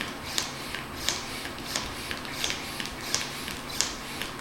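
Hand pump drawing air out of a vacuum storage bag through its valve, with a short, sharp hiss of air at each stroke, about one and a half strokes a second.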